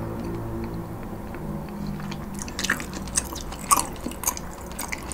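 Close-miked chewing of ramen noodles and pork belly: wet clicks and smacks that pick up about two seconds in, the loudest a little before four seconds. The tail of a music chord fades out during the first second or so.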